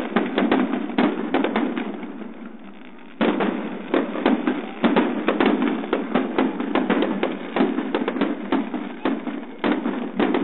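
Aerial firework shells bursting in rapid runs of bangs, with a short lull about two seconds in before a dense run of bangs starts again.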